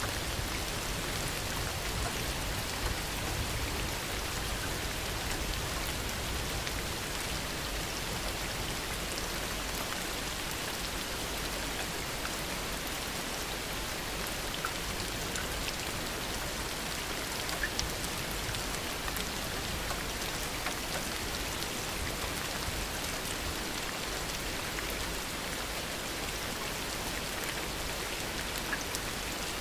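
Steady heavy rain falling, a continuous hiss with scattered drop ticks.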